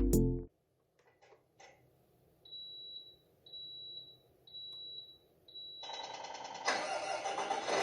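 Four short, high-pitched electronic beeps, about one a second, followed by a steady hiss that starts near the end and grows louder.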